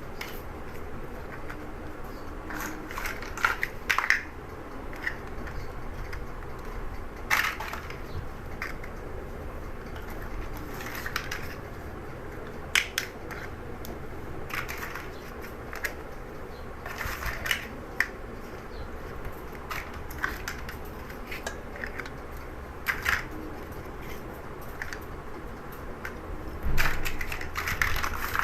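Plastic Lego bricks being handled and snapped together: scattered sharp clicks and small rattles, with a busier run of clicks near the end, over a low steady hum.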